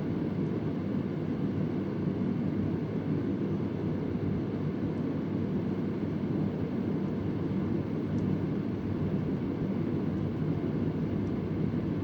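Vintage Convair oscillating fan running at a steady speed, its blades giving an even, low rushing whoosh. A few faint ticks sound irregularly behind it.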